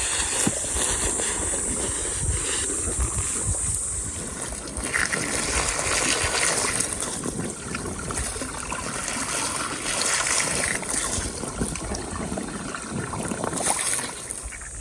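Water running and trickling, a continuous, shifting splashing noise.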